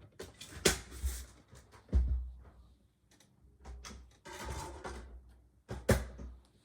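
Scattered clicks and knocks, with a louder low thump about two seconds in and a brief rustling stretch later.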